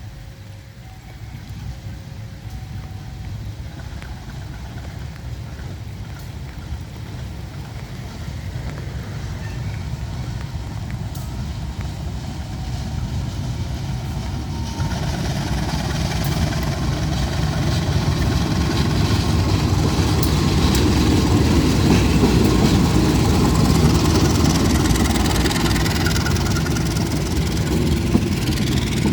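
An American-built diesel locomotive approaching, its engine rumble growing steadily louder. About halfway through, wheel and rail noise joins in as the train draws level, and the sound is loudest near the end.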